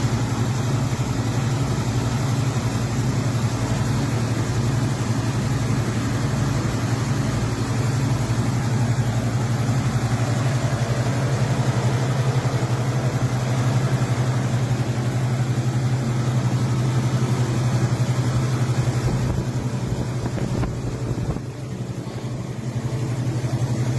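Pontiac 350 V8 engine of a 1967 Pontiac LeMans running steadily at an even speed, a low, evenly pulsing engine sound that starts abruptly and dips slightly in level near the end.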